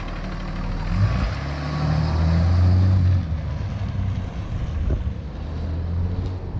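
Diesel truck engine running. It picks up about a second in, holds to around three seconds, then settles back to a steady run.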